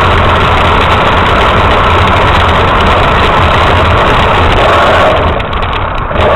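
RC truck's motor and drivetrain running steadily, easing off briefly about five seconds in before picking up again.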